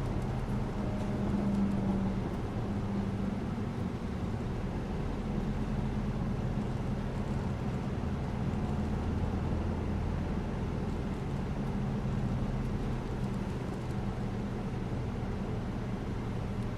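City bus riding along, heard from inside: a steady low engine hum over continuous road noise.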